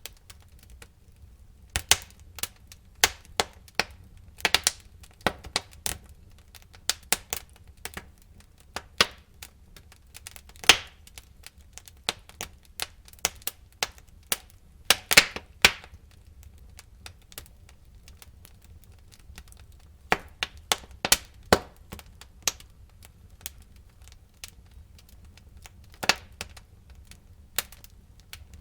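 Wood fire burning in a fireplace, crackling and popping: irregular sharp snaps, sometimes several in quick succession, over a low steady rumble of the flames. There is a quieter stretch with few pops around the middle.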